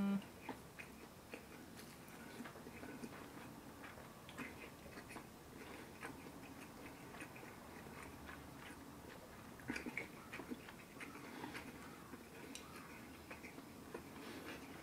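Close-miked eating sounds: a man chewing rice and fish, with scattered light clicks of chopsticks against the bowl and plates. A brief pitched hum right at the start.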